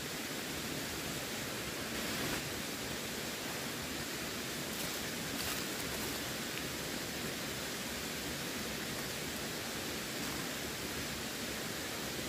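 Steady rush of running water, with a slight swell about two seconds in.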